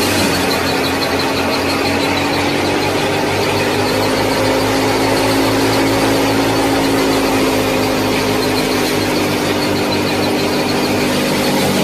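Small motor of a miniature model farm machine running steadily, with a high thin whine over its hum.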